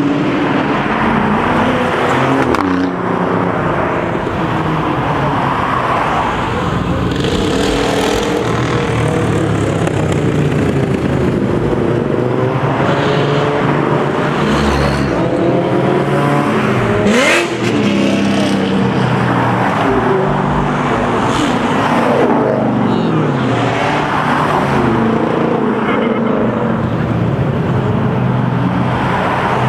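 Car engines revving and accelerating away, their pitch climbing and dropping over and over as cars pull out, with one sharp crack about seventeen seconds in.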